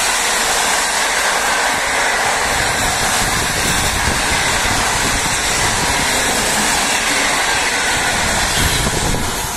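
An electric-hauled PKP Intercity passenger train passing close at speed. Its coaches make a steady, loud noise of wheels rolling on rail and rushing air as they go by.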